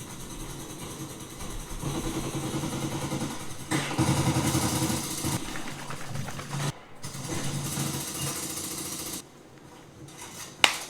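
A vehicle engine running, louder for a stretch about four seconds in, heard in several pieces that stop abruptly; a sharp click near the end.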